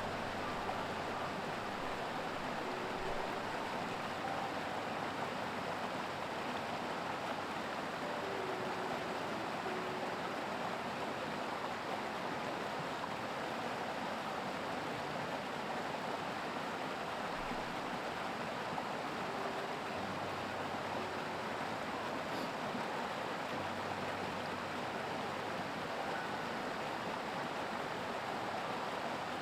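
Mountain creek rushing steadily, an even unbroken wash of running water.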